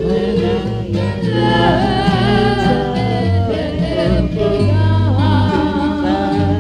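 Band music from a home four-track recording: steady bass notes under a wavering, bending lead melody.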